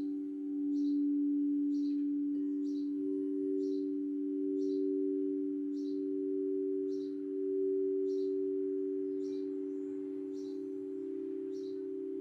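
Singing bowl sounding a sustained drone of a few close low tones that swell and fade slowly. Over it a bird gives short high chirps, about one a second.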